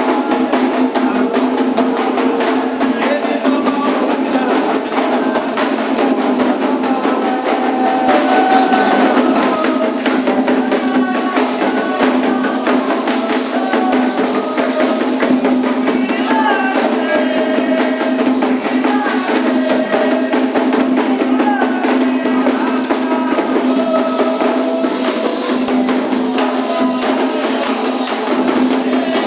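Candomblé ritual music: hand drums and other percussion played steadily with singing voices over them.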